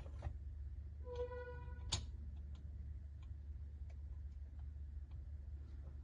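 Light clicks and taps of small steel tooling parts being handled, with a sharper click near two seconds. A brief pitched tone sounds about a second in, and a steady low hum runs underneath.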